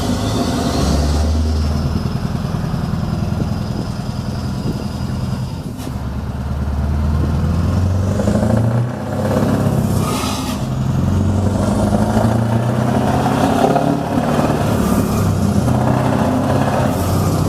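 Scania R500's V8 diesel engine running through loud exhaust pipes, its note rising and falling several times as it revs.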